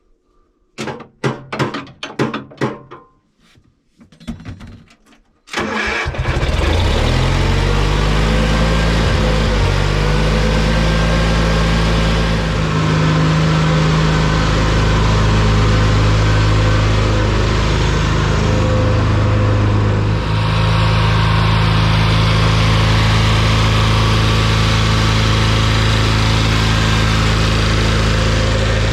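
Lawn mower engine cranking over in short bursts, then catching about five and a half seconds in and running steadily.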